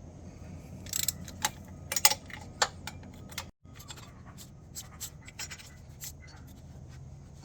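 Metal hand tools clicking and clinking: a few sharp clicks in the first seconds, then a run of lighter ticks and taps, as nuts on the exhaust up-pipe are being backed off.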